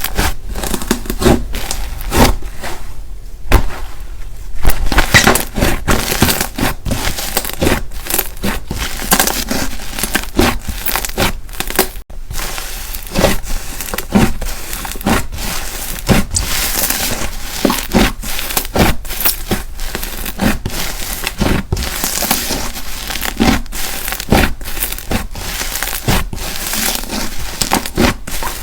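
Slime being squeezed, pressed and stretched by hand, giving dense, irregular crackling and popping. A brief break about halfway through.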